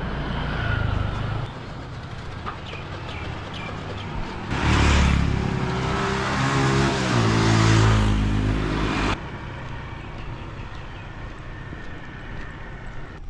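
A motor vehicle's engine passes close by, running louder for a few seconds in the middle with its pitch shifting, over steady street noise. The engine sound stops abruptly about nine seconds in.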